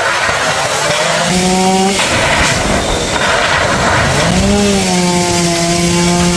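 Two-stroke chainsaw cutting into a tamarind tree: the engine revs up to full throttle about a second and a half in, eases off briefly, then revs up again near the middle and holds a steady high note, over the rasp of the chain in the wood.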